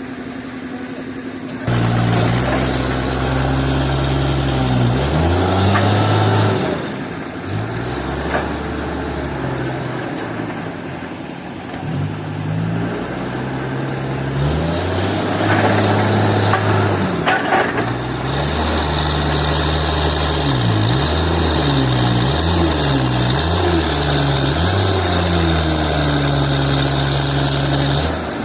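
An engine running, its pitch rising and falling several times as it is revved and eased off. About two-thirds of the way in, a steady high whine joins it.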